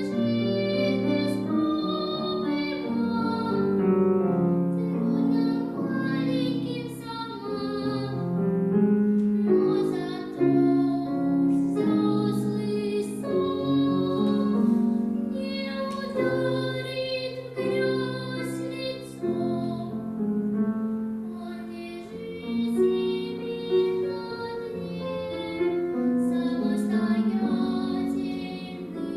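A girl singing a slow melody with piano accompaniment.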